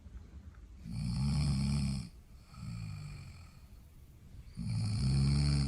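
An animal snoring in its sleep: a loud, rough snore about a second in, a quieter one after it, and another loud snore near the end.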